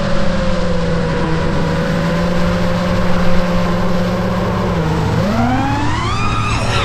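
iFlight Nazgul5 FPV quadcopter's brushless motors and propellers whining at a steady pitch, then climbing sharply in pitch about five seconds in as the throttle is pushed, falling away near the end.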